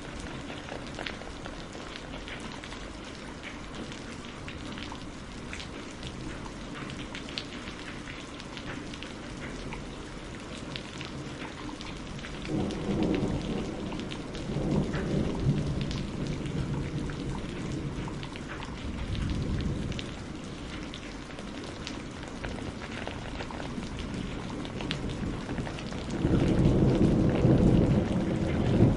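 Steady rain with distinct drops striking a surface, and thunder rumbling in twice: a long roll starting a little under halfway through, and another near the end.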